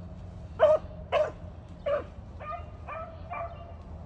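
Beagles baying while running: three short, sharp yelps in the first two seconds, then several longer drawn-out bawls.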